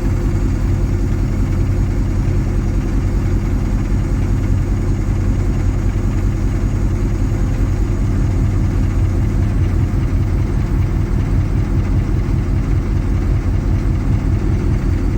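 Engine of a track-watering sprayer rig idling steadily, with no change in speed, while the spray boom extension is positioned.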